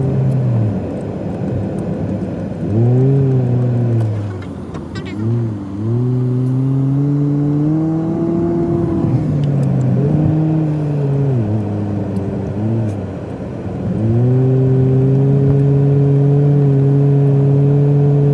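Car engine and drive noise heard from inside the cabin while driving at town speed, its hum rising and falling in pitch as the car slows and picks up again, and holding steady near the end.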